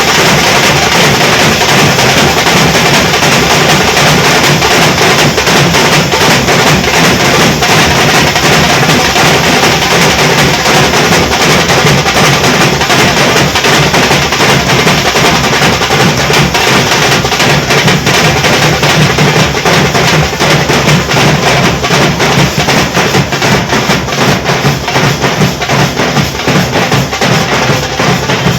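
Nashik dhol troupe drumming: big barrel dhols pounded together with the sharp cracks of tasha drums in a fast, dense, unbroken rhythm, very loud throughout.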